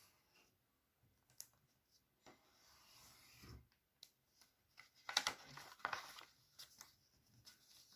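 A sheet of paper being handled and folded: soft rustles, scrapes and rubs as creases are pressed in, with a few light taps. The loudest rustling comes about five to six seconds in.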